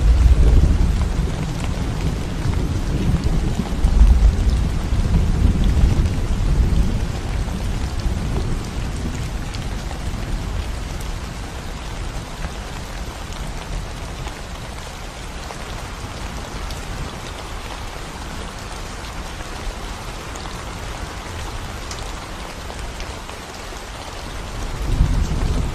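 Steady rain falling on a concrete road, an even hiss of drops. A low rumble swells through the first several seconds, dies away, and comes back near the end.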